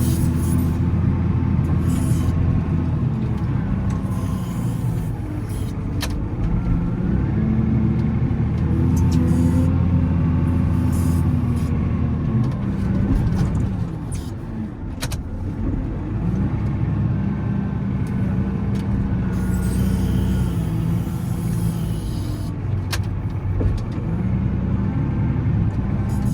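Volvo L70C wheel loader's diesel engine running under load while plowing snow, its revs rising and falling repeatedly every few seconds. A few sharp clicks or knocks are heard along the way.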